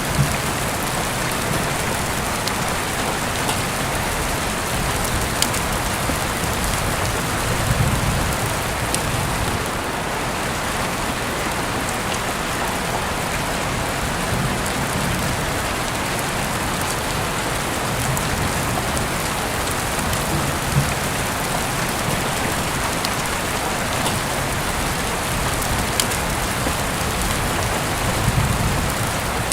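Heavy rain falling steadily, heard through an open window: an even hiss with scattered sharp drop ticks and a few brief low swells.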